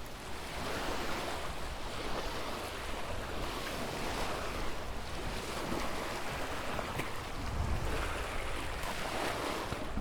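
Ocean waves washing in and breaking: a continuous rush of surf that swells and eases every few seconds, with a low rumble underneath.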